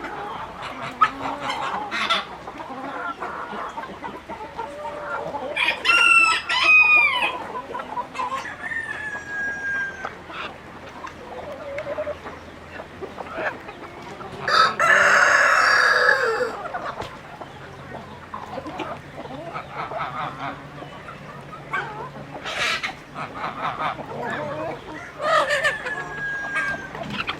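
Chickens clucking, with a rooster crowing and other short bird calls among them.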